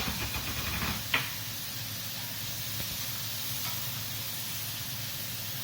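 Marinated chicken fillet sizzling steadily on a hot grill, with a sharp click about a second in.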